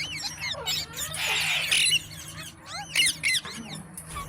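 Parrots chirping in quick, high sliding notes, with a harsh squawk about a second in.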